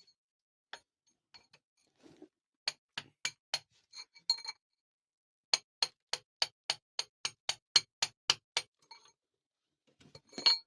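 Two runs of sharp taps or clicks, the second evenly spaced at about four a second, with a louder knock near the end.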